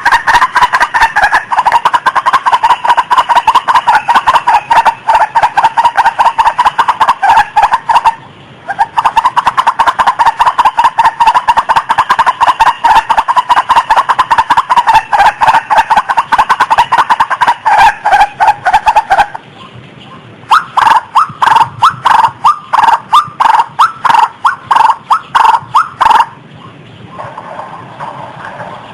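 Female rail (ruak-ruak / ayam-ayaman) in breeding condition giving a long, rapid run of clipped, clucking calls with a short break partway. After about 19 s it switches to a slower series of separate, louder notes, which turn fainter near the end.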